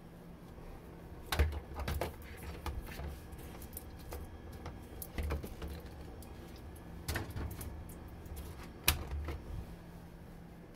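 Irregular clicks, knocks and light thuds of containers, jars and bottles being handled and set down on refrigerator shelves. The sharpest knocks come about one and a half seconds in and again near the end.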